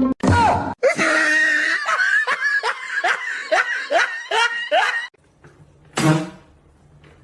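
A person laughing hard in a rapid run of about three bursts a second, lasting about four seconds, then one more short burst about six seconds in.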